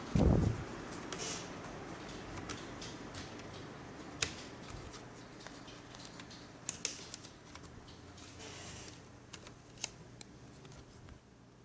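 A dull low thump right at the start, then scattered light clicks and rustles of small parts and tools being handled during laptop disassembly.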